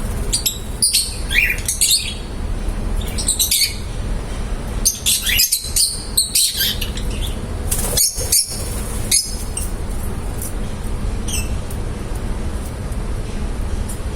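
Lovebirds chirping, with clusters of short high-pitched calls coming and going, over a steady low background hum.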